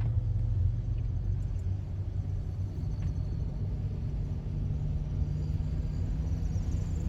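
Steady low rumble of road and engine noise heard inside a moving vehicle's cabin.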